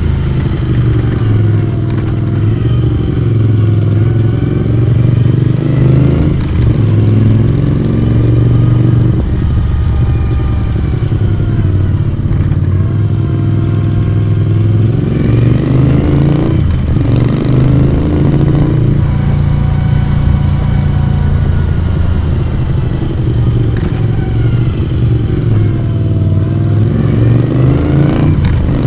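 Moto Guzzi V35's 346 cc transverse V-twin running under way, heard through its exhaust. The engine note falls and rises again and again, with short breaks about a quarter of the way in, just past halfway and near the end, where the note drops and then climbs again.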